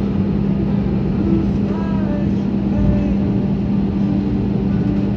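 Jet airliner engine noise heard inside the passenger cabin: a loud, steady rumble with a constant low hum.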